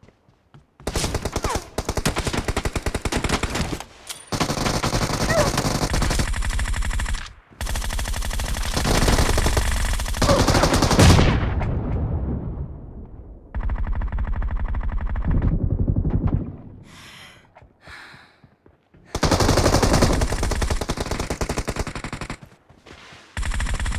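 Video-game automatic gunfire: long bursts of rapid fire, each a few seconds, with short pauses between them.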